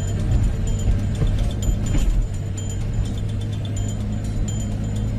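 Small excavator's diesel engine running steadily with a low hum, while faint short high chirps come and go over it.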